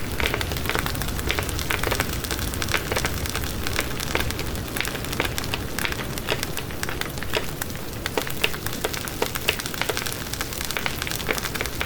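Wood fire burning in a fireplace, with a steady hiss and frequent irregular sharp crackles and pops from the burning logs.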